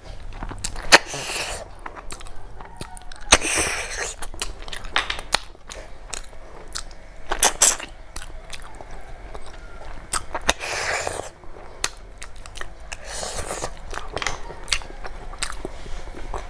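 Close-miked mouth sounds of someone eating rice and snail curry with their hand: wet chewing and lip smacking with many sharp clicks, and about five louder noisy bursts of about half a second each.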